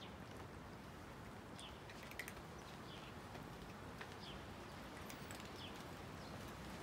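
Faint steady outdoor hiss with a few distant bird chirps scattered through it.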